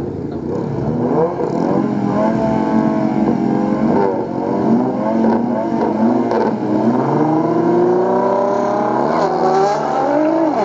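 Engines of a Proton Wira and a Nissan GT-R revving hard at a drag-race start line, pitch sweeping up and down. Near the end they launch and accelerate away in a long rising run.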